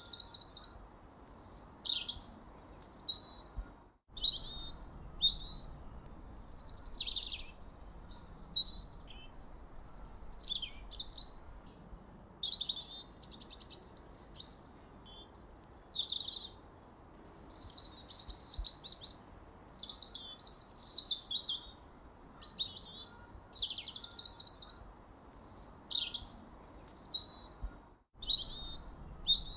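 Songbirds chirping and singing in quick, overlapping high phrases over a faint steady background hiss. The whole sound drops out for an instant twice, about four seconds in and near the end.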